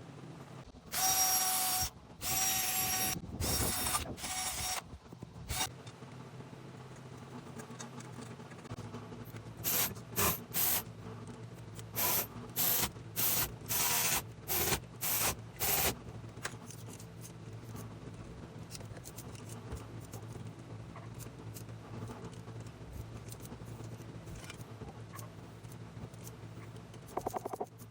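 Short bursts of hissing spray while the outside of a truck's rear differential housing is cleaned: about five bursts in the first few seconds, then a quicker run of about seven more. A steady low hum runs underneath.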